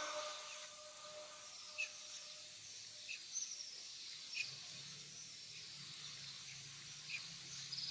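Quiet open-air ambience of a large courtyard: the echo of an amplified voice dies away in the first second, then faint short bird chirps repeat about every second and a half. A faint low hum comes in about halfway through.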